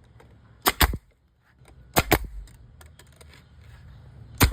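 Nail gun firing three shots into cedar fence-picket boards, each shot a sharp double crack, spaced unevenly about a second and a quarter and two and a half seconds apart.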